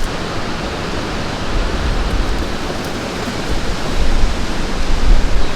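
Strong gusty wind: a steady rush of wind through trees and brush, with gusts buffeting the microphone in a low rumble that grows stronger near the end.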